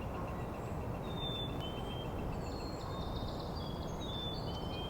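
White-throated sparrow singing thin, pure whistled songs, high notes stepping down in pitch, about a second in and again in the second half. They sound over a steady low background rumble.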